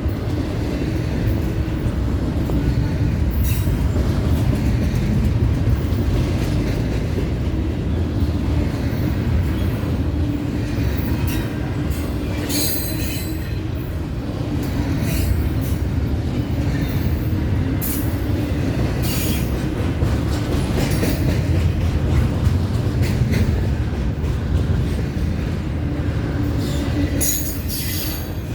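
CSX intermodal freight train rolling past: a steady rumble of wheels on rail, with brief high wheel squeals and clatter now and then.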